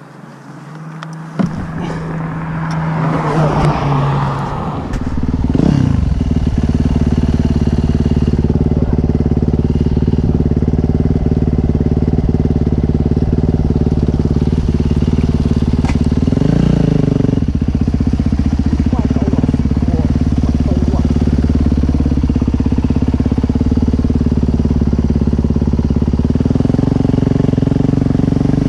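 Dirt bike engine catching about a second in and revving up over the next few seconds, then running loud and steady.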